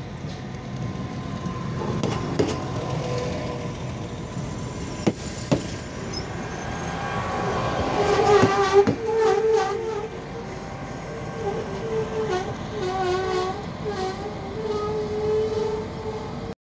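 SA133 diesel multiple unit running into the platform: engine and wheel rumble, with two sharp clicks of wheels over rail joints about five seconds in. From about halfway, a wavering squeal of the brakes sets in as it slows to a stop.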